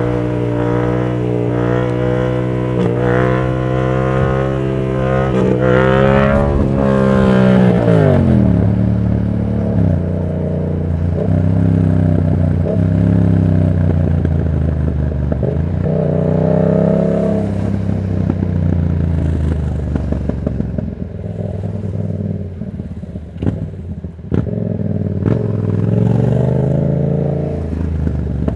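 Yamaha MT-07's 689 cc parallel-twin engine through an aftermarket Black Widow exhaust, pulling up through the revs for the first several seconds, then dropping off sharply as the throttle closes. It then runs at lower revs with a couple of short rises and falls, and a few sharp ticks in the latter part.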